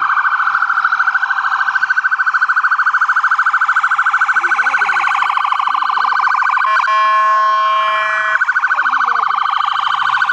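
Police car siren sounding loudly in a very fast warble, broken for about a second and a half past the middle by a steady, blaring horn tone before the fast warble resumes.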